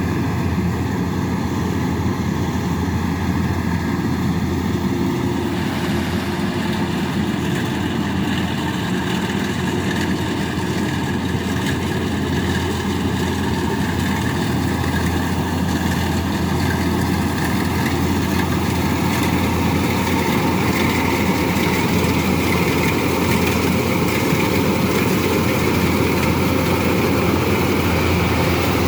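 Diesel engine of a Kubota DC-105X combine harvester running steadily, its tone shifting slightly about six seconds in and growing a little louder and higher in the last third.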